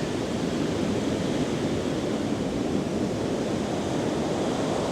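Heavy ocean surf breaking and washing in a steady rush, with some wind on the microphone.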